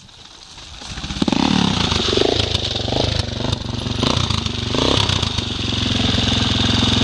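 A dirt bike or ATV engine comes in loud about a second in and is revved in several quick throttle blips. It then runs steadily at a fairly even speed.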